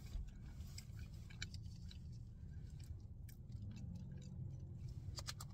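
A person chewing a forkful of potato salad: faint, scattered wet mouth clicks over a low, steady hum.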